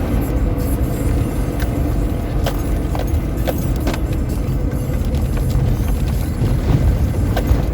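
A vehicle driving off-road on a desert sand trail: a steady low rumble with scattered clicks and rattles.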